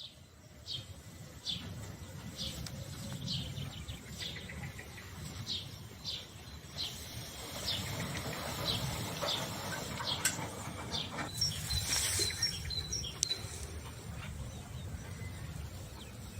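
Wild birds calling: one bird repeats a short, high, falling call about once a second, and a brief run of quicker twittering notes comes in a little past the middle. A steady low rumble sits underneath.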